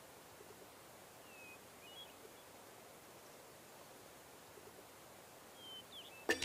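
Faint quiet outdoor ambience with a few short, high bird chirps, about a second and a half in, again at two seconds and near the end.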